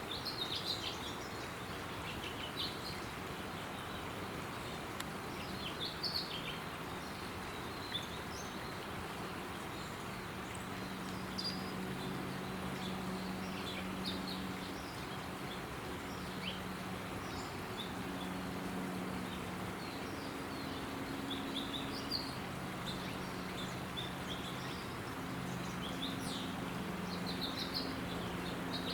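Small birds chirping, short high chirps and calls coming irregularly throughout, over a steady low hum and hiss of background noise.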